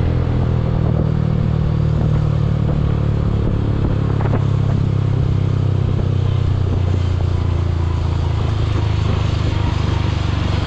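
Yamaha R15 V4's single-cylinder engine running at a steady, even pitch, with no revving, and a few faint clicks.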